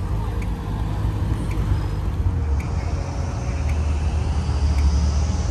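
Honda S2000's engine running at low speed as the car rolls slowly into a parking space, a steady low rumble.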